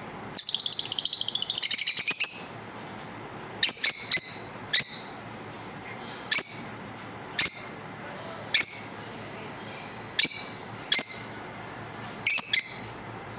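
Lovebird calls: a fast run of shrill chirps in the first couple of seconds, then single sharp squawks every second or so.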